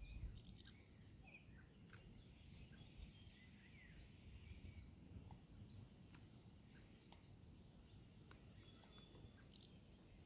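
Faint scattered bird calls, short high chirps every second or so, over quiet outdoor background noise with a low rumble.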